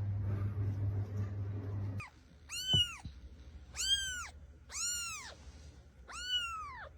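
A low steady hum that cuts off about two seconds in, then a cat meowing four times. Each meow is about half a second long and rises, then falls, in pitch.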